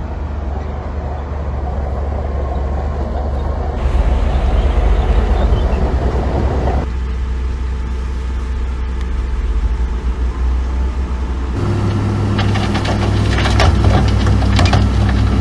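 Diesel engines of heavy earthmoving machinery, dump trucks and a bulldozer, running, with abrupt changes where the footage is cut. In the last few seconds, a dense clattering of rock fill crackles over a steady engine note.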